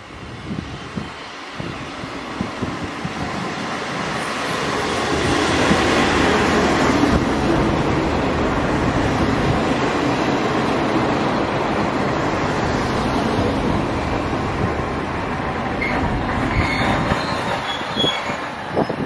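Diesel railcar running past along a station platform: the engine and the wheels on the rails build up over about six seconds, stay loud, then fade away.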